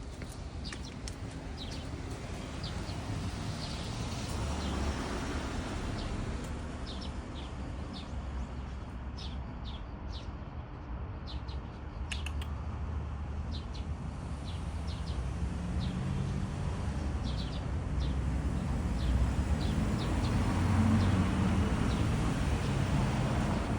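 Small birds chirping: many short, high chirps scattered throughout, over a steady low rumble that gets a little louder toward the end.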